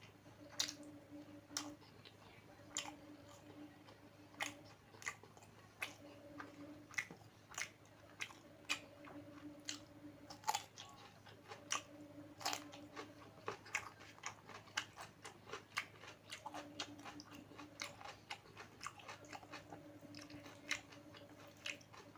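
Close-miked chewing of a home-cooked meal: wet mouth clicks and smacks with some crunch, at an irregular pace that quickens in the second half.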